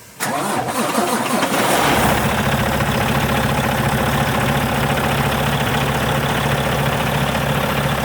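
A semi truck's diesel engine cranks and fires, then settles into a steady idle about two seconds in.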